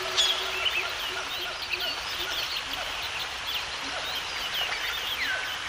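Many birds calling and singing together: a busy mix of short chirps and whistled notes that slide up and down, over a steady hiss of background noise, with a sharp click about a fifth of a second in.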